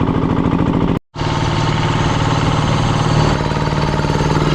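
An engine running steadily at an even speed, with a brief dropout to silence about a second in before it carries on unchanged.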